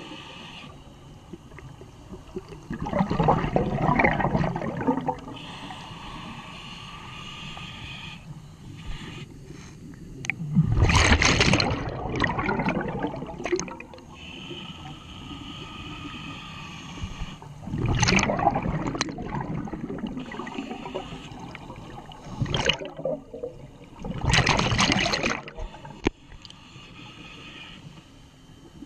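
Scuba diver breathing through a regulator underwater: loud gurgling bursts of exhaled bubbles about every six to seven seconds, with a quieter hiss between them.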